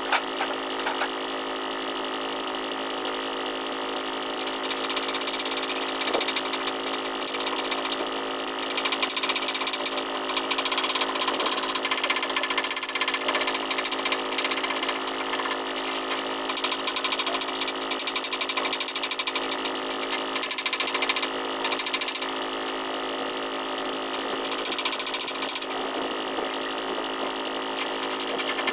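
A metalworking tool rattling and crackling in long stretches, starting about four seconds in, over a steady machinery hum with several fixed tones.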